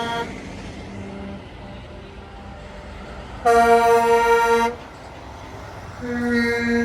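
Truck air horn blasting: one loud blast of about a second midway, then another starting near the end and still sounding.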